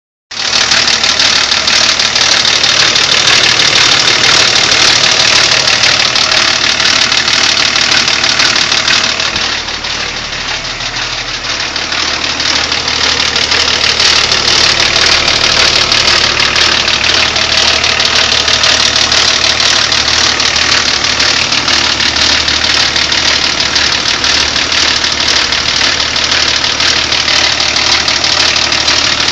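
BMW E34 525tds inline-six turbodiesel running with a steady loud rattle from the timing chain: the sign of a stretched timing chain and worn chain guides. The level drops for a few seconds around ten seconds in, then comes back.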